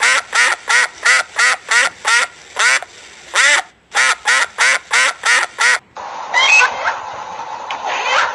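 A duck quacking in a rapid, even series of about fifteen loud quacks, roughly three a second, with a brief pause midway. About six seconds in it cuts to a different recording with a steady hissing background, a steady hum and a few fainter animal calls.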